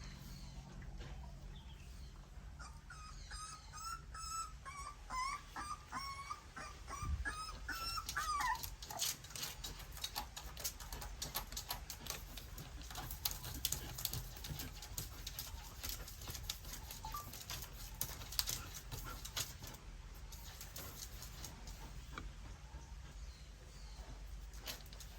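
Nursing puppies whimpering in a string of short, high squeaks for several seconds. Then comes a long run of quick clicking and smacking sounds as they suckle, fading toward the end.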